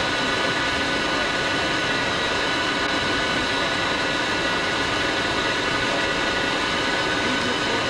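Engine running steadily under a constant hiss, with several high, steady whining tones.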